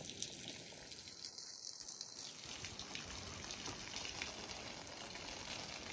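Thin falling water from a waterfall that has shrunk to a trickle in the dry summer, splashing steadily like rain.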